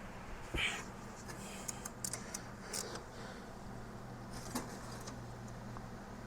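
Scattered light clicks and clinks of hand tools and parts being handled in a car's engine bay, over a steady low hum.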